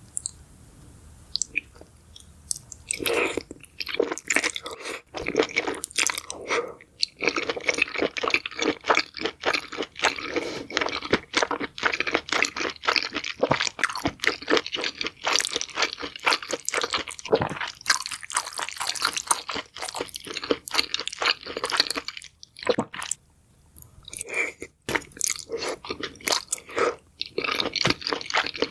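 A person chewing crunchy food close to the microphone, a dense run of rapid crackling crunches. It starts after about three seconds and pauses briefly once near the end.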